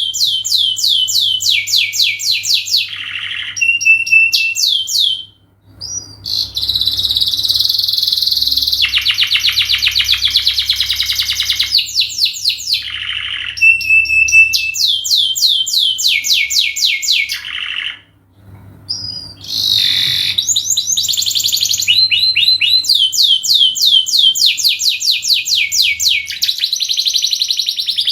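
Domestic canary singing a long song of rapid, evenly repeated trill phrases, one after another. The song breaks off briefly about five seconds in and again about eighteen seconds in.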